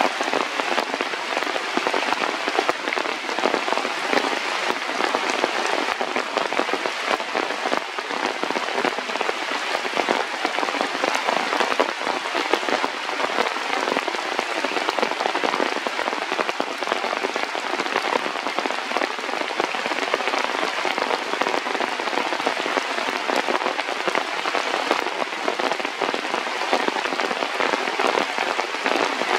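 Rain falling steadily, a dense, even patter and hiss with no let-up.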